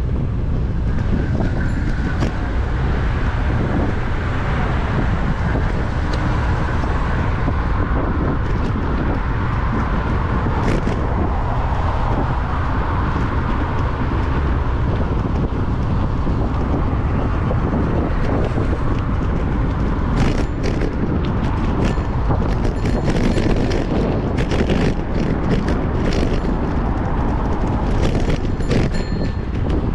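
Wind rumbling on a GoPro's microphone while cycling, with passing car traffic. A run of sharp clicks and rattles comes in the second half.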